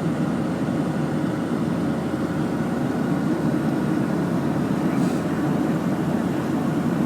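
Steady low rumble of a vehicle travelling, even and unbroken.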